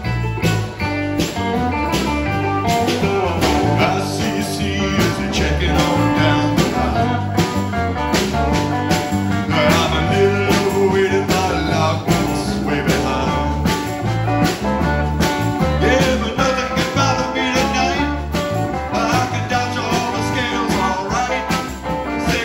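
Band music with guitar, bass and drums keeping a steady beat: a country-rock, blues-tinged tune.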